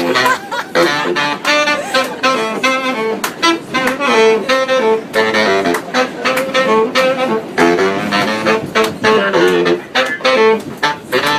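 Saxophone playing live, quick runs of short melodic notes.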